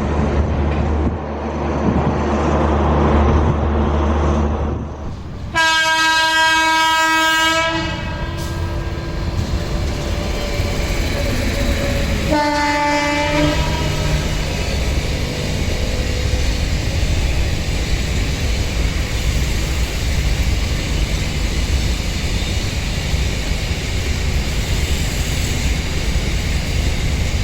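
Indian Railways locomotive horn sounding twice: a long blast about five seconds in and a shorter one about a second long a few seconds later. Before and after the blasts, the steady rumble of a passing train.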